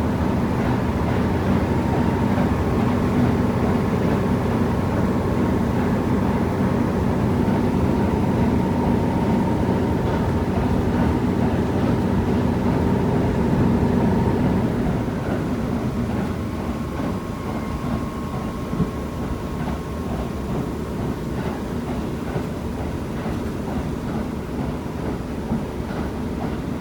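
KiHa 75 diesel railcar running, heard from inside the car: the diesel engine drones steadily under power, then about halfway through the engine note drops away. The car runs on more quietly, with wheels clicking over rail joints.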